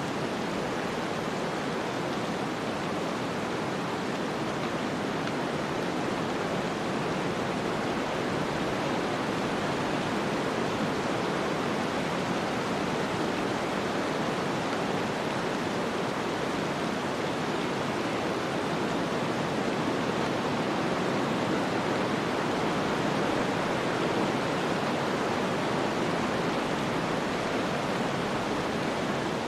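Snowstorm ambience: a steady, even rush of wind noise with no gusts, clicks or crackles standing out.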